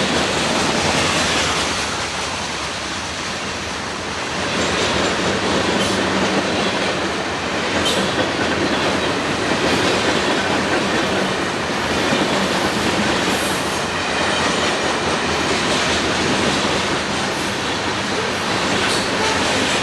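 Freight train cars rolling past close by in a steady loud rumble, wheels clacking over rail joints with a few sharp clicks and a brief high wheel squeal along the way.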